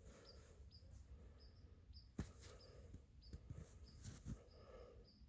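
A small bird giving faint, short, high chirps over and over, about two a second. A few crunches of footsteps in snow come through, the loudest about two seconds in.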